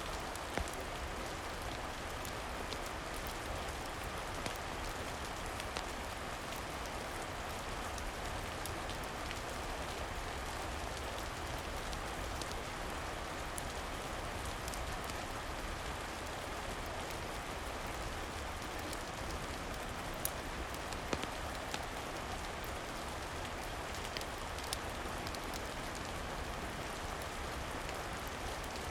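Steady rain falling, with scattered sharp crackling pops from a wood fire in a fireplace mixed in.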